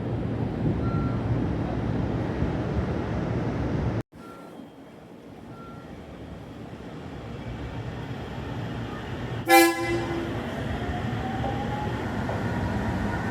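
A train sounds one short horn toot about two-thirds of the way in, the loudest thing heard, over the rumble of a train running. The sound cuts off abruptly about four seconds in and then rebuilds, and a faint rising whine follows the toot.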